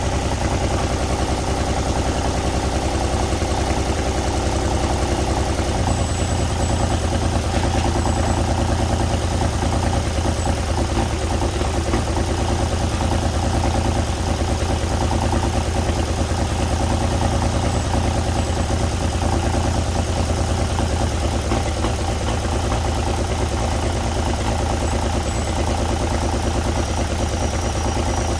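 Old winch truck's engine running steadily at a low idle-like speed, with a slight shift in its low note about six seconds in.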